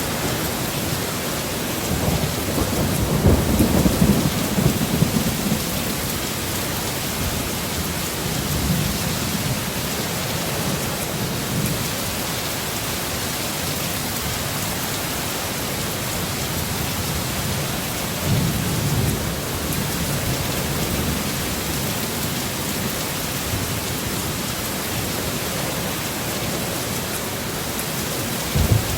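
Heavy rain falling steadily in a thunderstorm, with several low rumbles of thunder rolling in and out. The longest and loudest comes a few seconds in.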